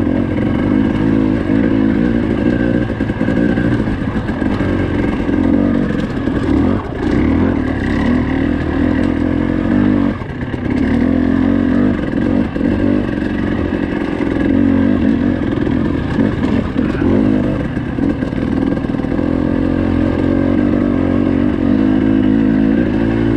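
Dirt bike engine running under load at fairly steady, low revs while being ridden, with a brief easing of the throttle about ten seconds in.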